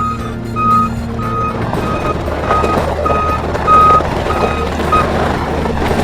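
Skid steer's backup alarm beeping at an even pace, about three beeps every two seconds, over the machine's engine running; the beeping stops about five seconds in, and a rougher machine rumble swells up as it moves.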